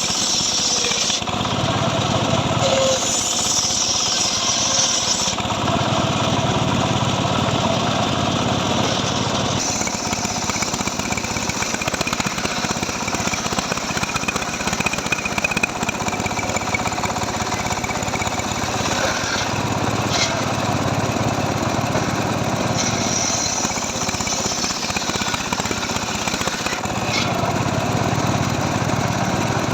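Two-stroke chainsaw running under load, cutting through dry mahogany, its sound shifting every few seconds as the cut loads and eases.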